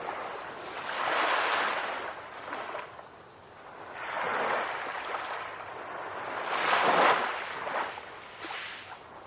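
Ocean waves breaking and washing up on a shore: three surges of surf that build and fade, the loudest about two-thirds of the way through.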